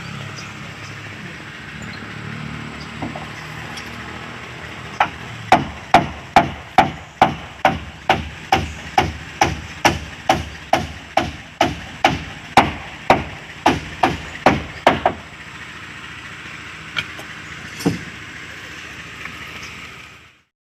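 Hammer striking wood on a wooden boat under construction: a steady run of some twenty blows, about two a second, starting about five seconds in and stopping about ten seconds later.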